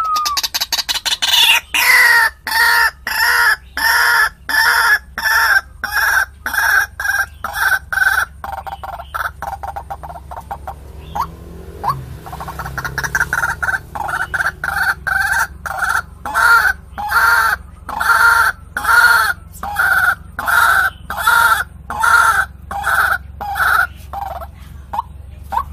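White-breasted waterhen (ruak-ruak) calling: a long series of loud, evenly repeated croaking notes, about two a second. The series breaks off briefly about halfway through, then resumes. The call is played as a bird-trapping lure.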